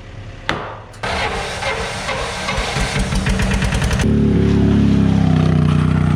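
A vehicle engine: a sharp click, a rattling mechanical noise from about a second in, then the engine runs loud and steady from about four seconds in.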